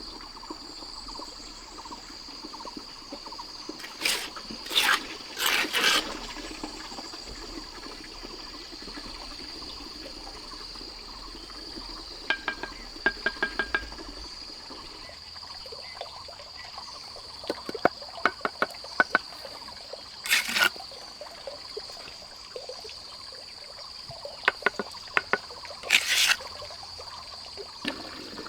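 A steady high insect drone, with several short splashes of water about four seconds in, near the middle and near the end, and runs of quick light clicks in between.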